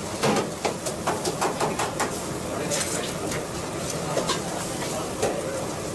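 Food cooking at a street-food stall: a steady sizzle with many quick clicks and clatters of metal utensils working the food.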